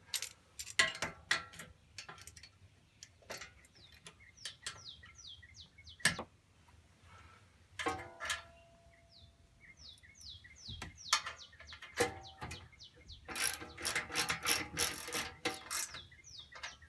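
Irregular metallic clicks and clinks of hand tools working nuts and bolts on a tiller, with a dense run of rapid clicking about thirteen seconds in. Birds chirp in the background.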